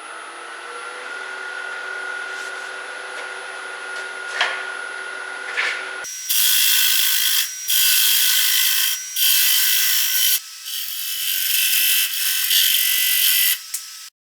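Grizzly G0800 wood lathe running with a steady motor tone that rises slightly near the start. From about six seconds in comes a loud, harsh rasping scrape of tool work against the spinning spalted-oak bowl blank, in several stretches with short breaks, and it cuts off just before the end.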